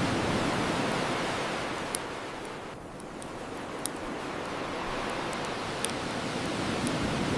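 Ocean waves washing on a shore, easing off about three seconds in and building again, with sharp pops from a crackling bonfire, the clearest about two, four and six seconds in.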